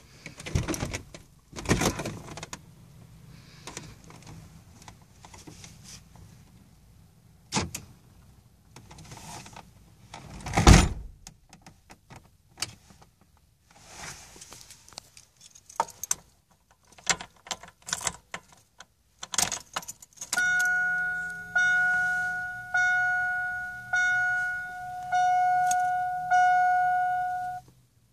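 Car keys jangling and clicking, with a sharp knock about ten seconds in. About twenty seconds in, the truck's warning chime sounds six times in a row, each tone fading before the next, about one a second.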